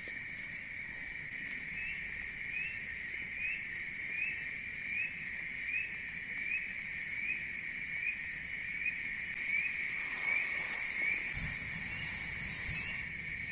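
Steady high-pitched chorus of forest insects with a short rising chirp repeating about every three-quarters of a second. A brief rustle and a soft thump come about ten to eleven seconds in.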